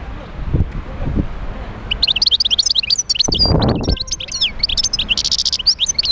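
European goldfinch singing: a rapid, dense run of twittering notes starts about two seconds in, with a short buzzy stretch near the end. A few brief low rumbles sound beneath it.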